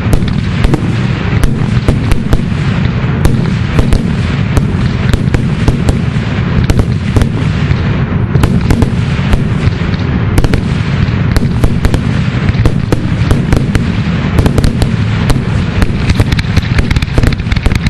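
Fireworks grand finale: a dense barrage of aerial shell bursts, many bangs a second overlapping into a continuous loud rumble.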